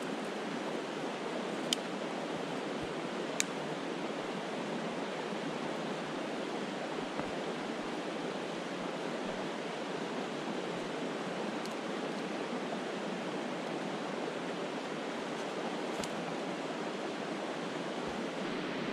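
Brook water flowing steadily as an even rushing hiss, with a few sharp clicks or snaps, one near the start, one a few seconds in and one near the end.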